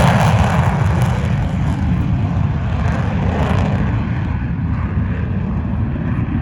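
F-35C Lightning II's jet engine rumbling loudly through a touch-and-go and go-around, the high hiss falling away about halfway through as the jet moves off.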